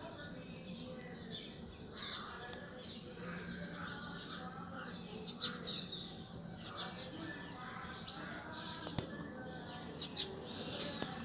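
Small birds chirping, with many short, high chirps.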